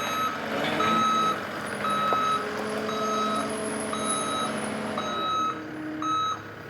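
Tracked skid steer's backup alarm beeping steadily about once a second as the machine reverses, over its engine running.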